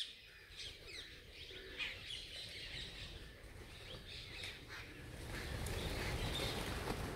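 Wild birds chirping and calling in short, scattered notes, with a low rumble that grows louder about five seconds in.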